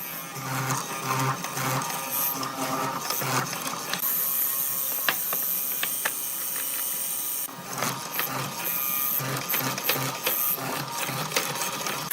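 A woodworking power tool running, with a high whine and scattered clicks, cutting out briefly about seven and a half seconds in.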